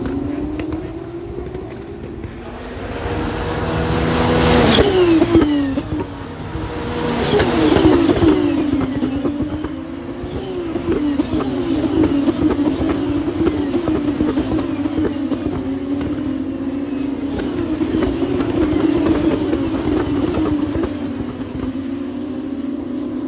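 Race cars passing at full speed: one close pass about five seconds in with its engine note falling sharply, another about three seconds later, then several cars accelerating away with repeated rising notes cut by upshifts. Other cars' engines run on steadily throughout.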